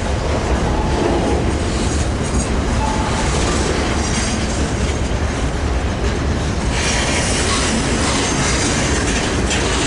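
Freight cars of a BNSF intermodal train rolling past close by: a steady rumble with wheels clattering over the rail joints and a faint high wheel squeal.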